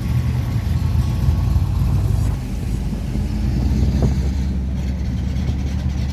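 A car engine running close by with a steady, deep rumble; its pitch settles slightly lower a little over two seconds in.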